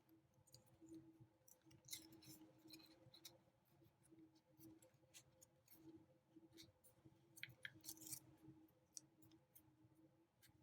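Faint crinkling and soft crackles of a square of origami paper being creased and folded, a few louder crackles about two seconds in and again near the end, over a low steady hum.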